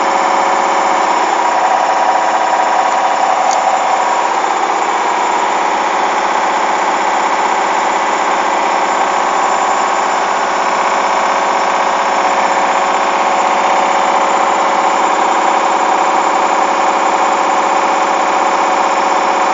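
Hoover washing machine drum spinning at speed, its motor running with a steady whine and hum; the tone shifts slightly about four seconds in.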